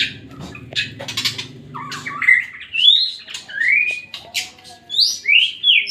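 Murai songbird singing: harsh chattering notes and clicks, then a run of clear whistled notes that rise in pitch, growing more frequent in the second half. A low hum sits underneath for the first couple of seconds.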